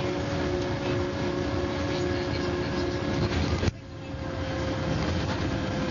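MCW Metrobus double-decker bus engine running under way, heard from on board as a steady drone with a hum. A little more than halfway through the sound drops away suddenly, then builds back up over about a second.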